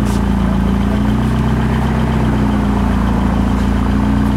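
BMW X5 M's twin-turbo V8 idling steadily through an aftermarket exhaust.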